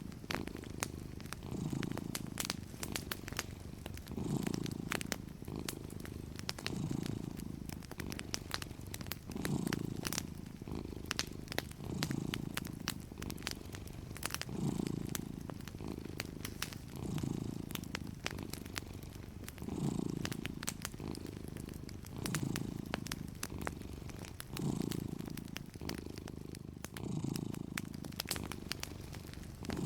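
A domestic cat purring, rising and falling in even swells about once every two and a half seconds as it breathes in and out, over the scattered light crackle of a wood fire.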